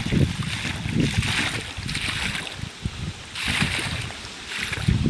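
Water gushing from the delivery pipe of a compressor-driven air-lift borewell, the flow surging unevenly as air and water spurt out together.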